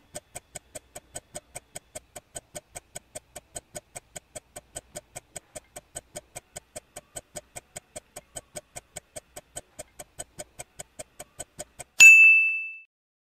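Countdown clock-tick sound effect, about four ticks a second, then a single bright ding near the end as the quiz answer is revealed, ringing out and fading within a second.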